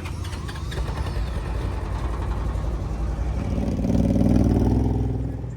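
A motor vehicle's engine running, growing louder from about three and a half seconds in, loudest around four seconds, then easing off.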